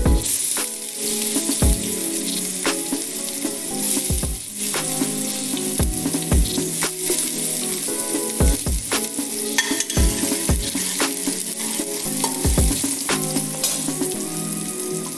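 Minced garlic sizzling steadily in hot oil in a stainless steel pot, with a dozen or so irregular dull knocks through it.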